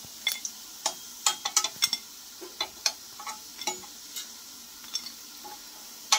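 Pholouri fritters sizzling steadily in shallow oil in a frying pan, with a perforated metal skimmer clicking and scraping in the pan about a dozen times at irregular intervals as it lifts the fried fritters out.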